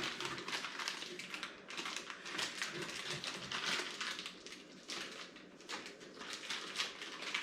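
Rustling and light irregular clicks of small parts and packaging being handled by hand.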